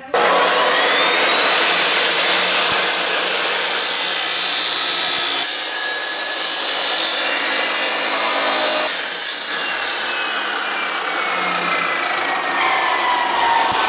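A power cutting tool spins up with a rising whine and cuts through metal, making a steady, loud abrasive grinding rasp. Its motor pitch slowly drops in the later seconds as it bears into the cut.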